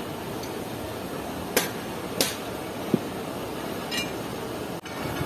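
Passenger train moving off at walking pace, heard from an open coach window: a steady low rumble with a few sharp metallic clanks spaced irregularly through it.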